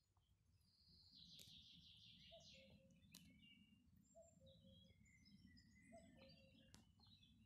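Several birds singing and chirping, with high trills and twitters mixed with a low two-note falling call repeated every couple of seconds, over a faint low rumble.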